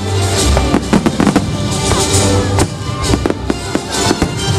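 Aerial fireworks shells bursting in quick succession, a string of sharp bangs and crackles, over music with sustained tones and a steady bass.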